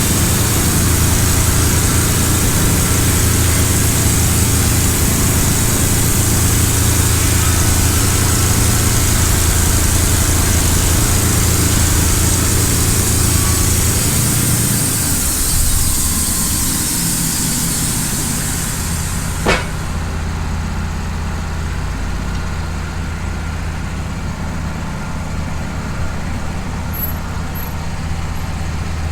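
Wood-Mizer LT15 portable bandsaw mill running, its blade sawing through a cedar log over a steady engine hum. About two-thirds in the high cutting noise stops at once with a sharp click, and the engine runs on alone.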